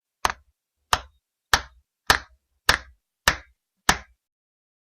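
A sharp percussive strike repeated seven times at an even pace, about one every 0.6 seconds, each dying away quickly.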